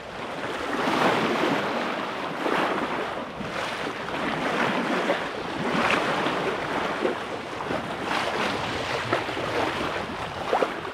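Sea water rushing and splashing along a sailboat's hull as it moves through the waves, swelling and easing every second or two, with wind buffeting the microphone.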